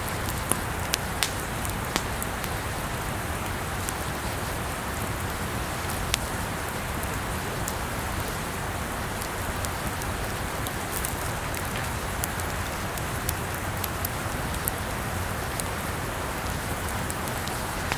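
Campfire burning: a steady rushing hiss with irregular sharp crackles and pops of burning wood, a few bunched together about two-thirds of the way through.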